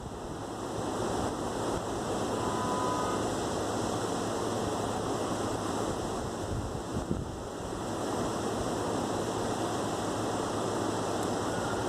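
Steady rain falling, an even continuous hiss with no distinct thunderclap.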